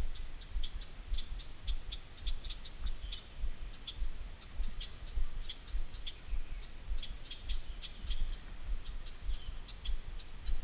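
Small birds chirping in short, high chips, many a second and irregular, over a low, uneven rumble.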